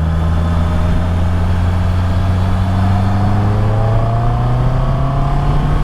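Honda CB650R's inline-four engine running at road speed, heard through a helmet microphone over steady wind and road noise. Its pitch climbs gently in the second half as the bike picks up speed.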